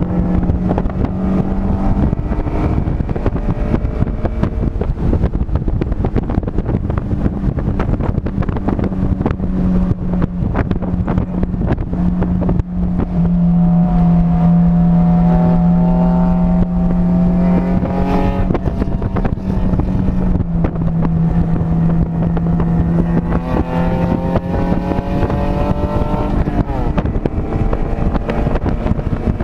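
Vehicle engine heard from on board at speed around a racetrack, over steady wind noise. The engine note climbs twice as it accelerates and falls away sharply each time as the driver lifts or brakes.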